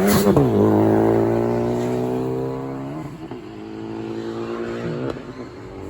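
Car engine revving hard: a sharp burst at the start, the pitch drops within half a second, then it holds a steady high note that eases down slowly, with brief blips about three and five seconds in.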